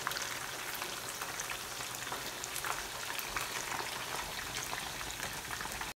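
Chicken pieces deep-frying in very hot oil in a pan: a steady sizzle dotted with many small crackles and pops.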